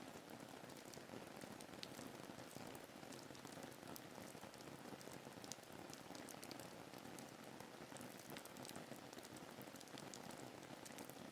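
Steady, faint rain ambience: an even hiss of rainfall with many small, sharp drop ticks.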